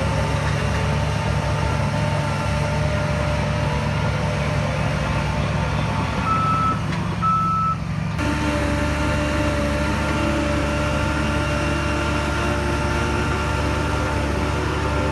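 Heavy diesel earthmoving machinery running steadily with a high-pitched reversing alarm beeping as a machine backs up. The engine sound changes abruptly about halfway through.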